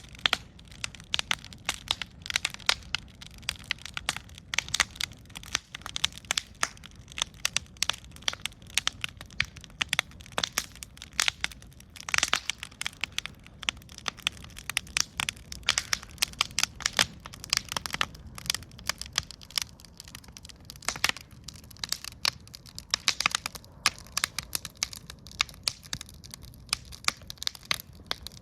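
Wood fire crackling: many sharp, irregular pops and snaps, several a second, over a low rumble from the burning.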